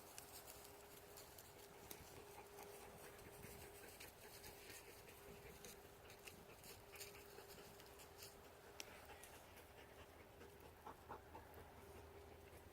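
Near silence, with faint scattered clicks and a faint steady hum.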